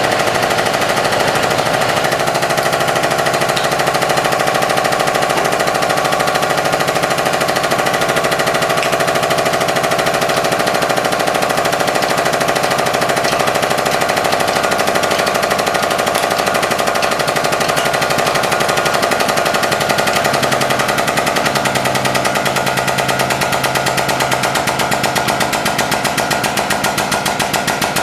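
Hydraulic press pump running steadily with a rapid, even pulsing rattle, the pulses standing out more clearly near the end.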